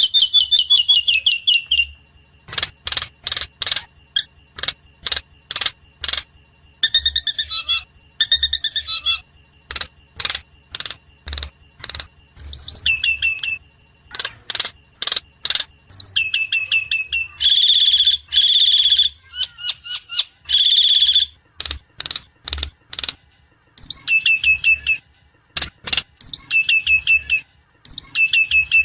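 Javan myna calling: a long, uneven run of short, harsh notes mixed with chattering, whistled phrases, a few held for about a second, around 17 to 21 seconds in.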